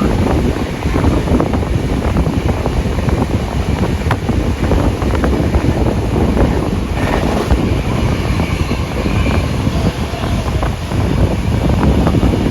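Steam-hauled passenger train running at speed, heard from on board: a steady loud rush of running noise with irregular clatter, and heavy wind buffeting the microphone.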